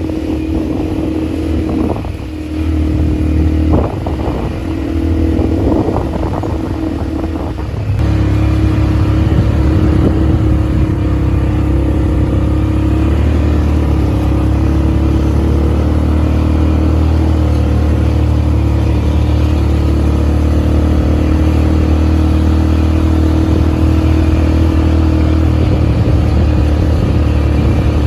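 ATV engine running while riding. Its note shifts for the first several seconds, then holds steady and a little louder.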